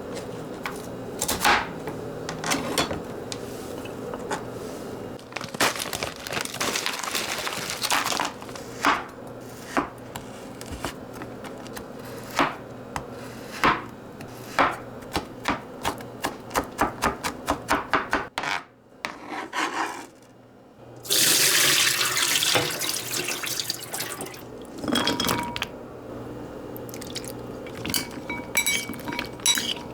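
Kitchen work sounds: dishes and utensils clinking and knocking again and again, with a tap running in a steady rush for a few seconds about two-thirds of the way through.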